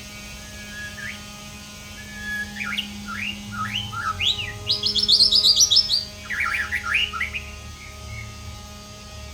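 White-rumped shama (murai batu) singing: a run of rising whistled notes, then a fast, high trill about five seconds in, then another quick burst of notes. A steady electrical hum runs underneath.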